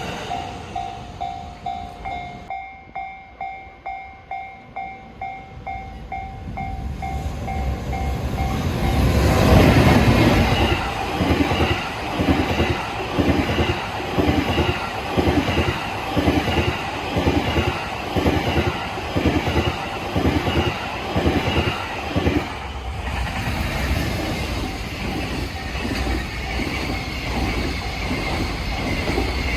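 A Japanese level-crossing warning bell rings rapidly, then a train passes close by. Its noise swells to a peak about ten seconds in and covers the bell, followed by a rhythmic clatter of wheels over rail joints at about one and a half beats a second, then a steadier rolling run.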